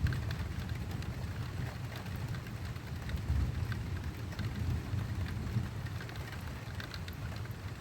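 Rain falling during a thunderstorm, scattered drops ticking over a steady low rumble.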